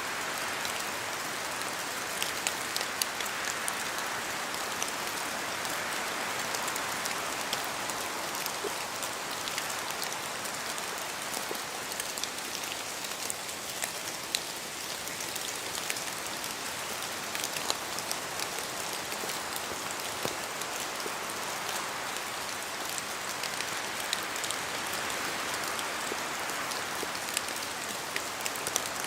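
Steady rain in a forest: an even hiss with many separate drops falling from the trees.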